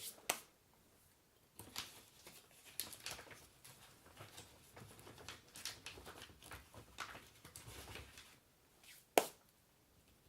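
Faint handling noises: scattered light clicks with rustling and scraping, and a sharper click just after the start and another near the end.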